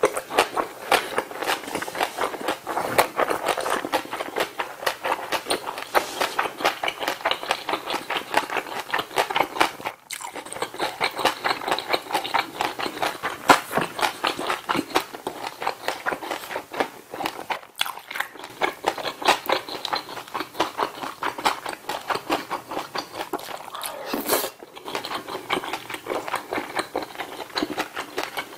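A person chewing a large mouthful of food close to the microphone: fast, continuous chewing made of many small wet clicks, with brief pauses about ten and eighteen seconds in.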